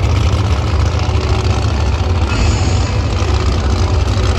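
Monster truck engines running loud and steady, with a heavy low rumble.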